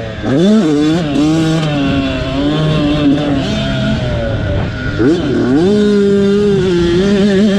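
Motocross dirt bike engine racing on the track, its pitch rising and falling with throttle and gear changes. Near the middle it drops sharply, then climbs back and holds a steady high note.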